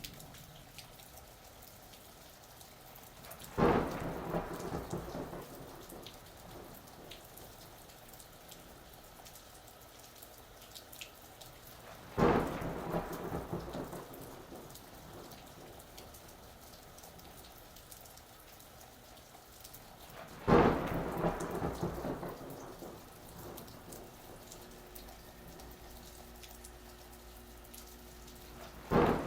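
Steady rain with thunder: three sharp thunderclaps about eight seconds apart, each dying away over a couple of seconds, and a fourth breaking right at the end.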